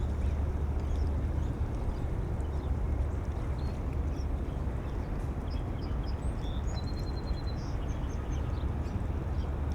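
Steady low rumble of wind buffeting the microphones by the river, with small birds chirping faintly, including a short trill about seven seconds in.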